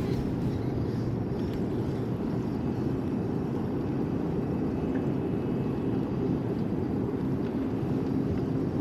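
A boat's motor running steadily, a low even rumble.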